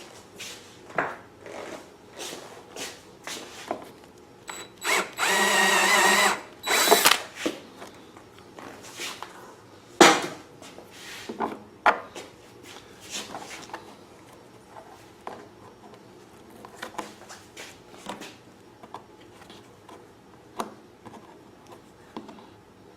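Electric drill boring a hole through the generator's housing for a fuel fitting. It runs steadily for about a second and a half, then gives a brief second burst. Scattered clicks and knocks from handling the tool and the housing are heard before and after.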